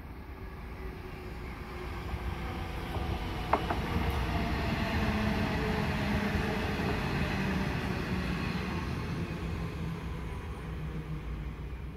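Train passing, its rumble building to its loudest about halfway through and easing off toward the end, with a low hum that drops slightly in pitch and one sharp click a few seconds in.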